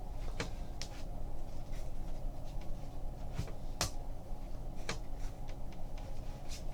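Trading cards and packs being handled: scattered sharp clicks and taps, about seven spread over several seconds, over a steady low hum.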